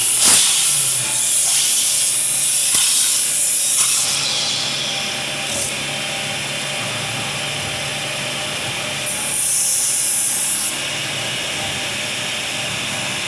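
CNC metal-spinning lathe forming a 0.8 mm sheet-metal disc into a cake pan: the forming roller hisses and rubs on the spinning metal over a steady machine hum. The hiss is loudest in the first four seconds and again around ten seconds in, with a knock just after the start.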